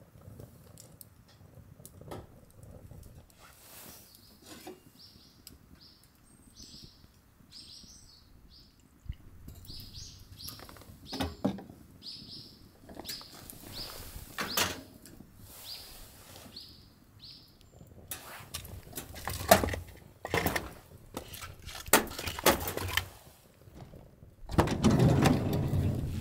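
A bird calling over and over in series of short, high, falling notes, among scattered small clicks and knocks. A louder rustling, scuffing noise comes near the end.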